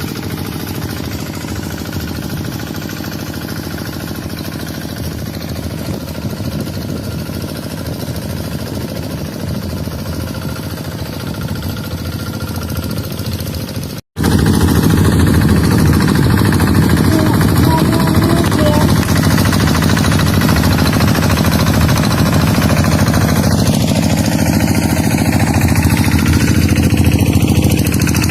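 Tractor engine running steadily with a knocking, rattling quality. It breaks off for an instant about halfway through, then carries on louder.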